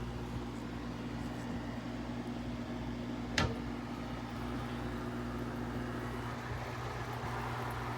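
Steady low machine hum with a constant tone, and a single sharp click about three and a half seconds in.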